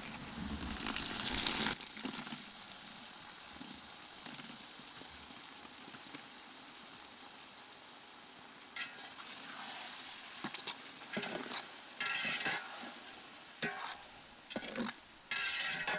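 Onion and tomato frying in hot oil in a cooking pan, sizzling, louder for the first couple of seconds and then settling to a faint steady sizzle. From about halfway there are short, irregular stirring noises in the pan.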